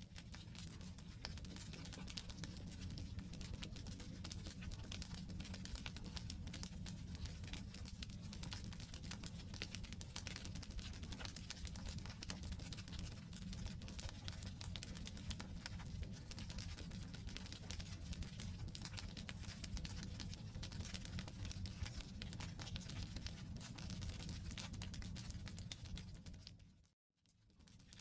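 Wood campfire burning: dense small crackles and pops from the logs over a low, steady rumble of the fire. Near the end it fades out briefly to near silence and fades back in.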